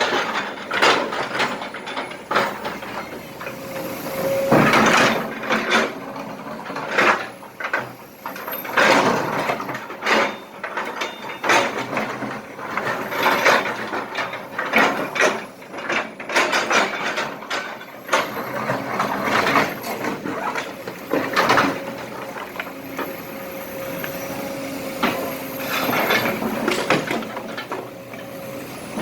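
Kobelco SK200 excavator loading broken asphalt and small rocks: the bucket scrapes and dumps, making many irregular clattering knocks over the machine's running engine. A thin steady whine comes in for several seconds near the end.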